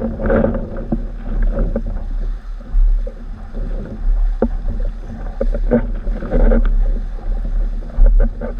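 Strong wind buffeting the microphone as a low rumble, with water splashing and slapping against a windsurf board skimming over choppy sea, and a few sharp knocks.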